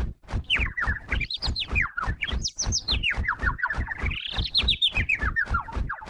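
Bird chirping in a rapid run of short notes that sweep up and down in pitch, over a steady low pulse about four times a second.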